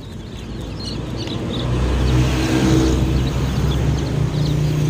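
A motor vehicle's engine running close by, growing louder over the first two seconds and then holding steady, with day-old chicks peeping faintly over it.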